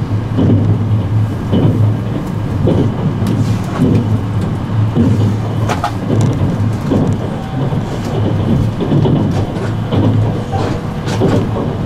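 E653-series electric express train running, heard from inside the carriage: a steady rumble of wheels on rail with a low hum and scattered knocks and clicks from the track.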